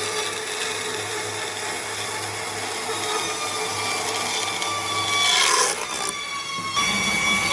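A power tool working wood, running steadily with a low hum. It surges louder about five and a half seconds in, and the sound changes abruptly near the end.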